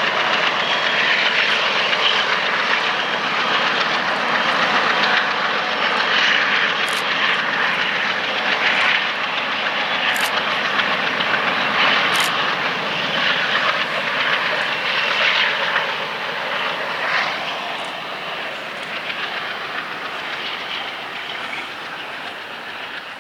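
Military train rolling past: steady wheel-on-rail noise with a few short high squeaks, growing fainter over the last several seconds as it moves away.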